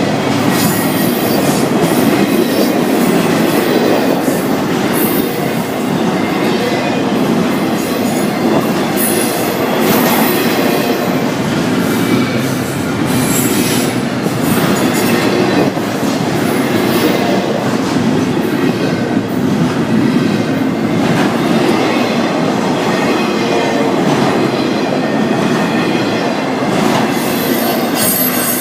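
Florida East Coast Railway freight train's cars rolling past close by, wheels clacking over the rail joints with spells of high wheel squeal.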